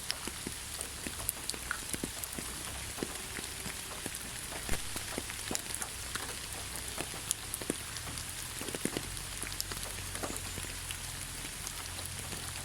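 Steady rain falling in a pine forest: an even hiss with many separate drops striking close by at irregular moments.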